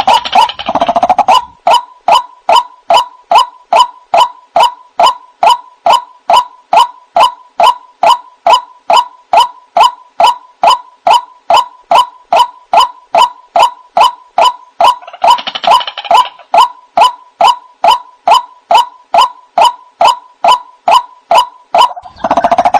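White-breasted waterhen calling in a long monotonous series of short, hoarse notes, about two and a half a second, each dropping slightly in pitch. A brief burst of other noise about fifteen seconds in.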